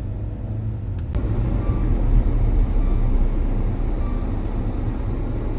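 Car cabin noise while driving: a steady low engine and road rumble. There is a sharp click about a second in, after which the noise grows louder.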